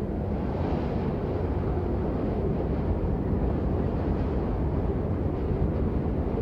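Steady rain falling, a dense, even, dull rush with little hiss and no breaks.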